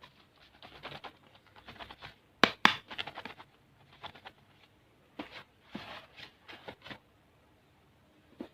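Candy packets being handled: irregular crinkling, scratching and light tapping. A pair of sharp clicks about two and a half seconds in is the loudest moment.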